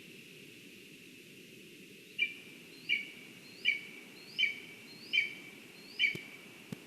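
Black woodpecker calling: six loud, short, evenly spaced notes, a little under a second apart, starting about two seconds in over a steady hiss. Two sharp clicks near the end.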